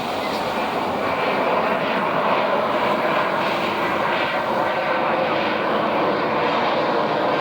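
Jet noise from a USAF F-22 Raptor in flight, its twin Pratt & Whitney F119 afterburning turbofans sounding as a dense, steady rush that swells over the first couple of seconds and then holds loud.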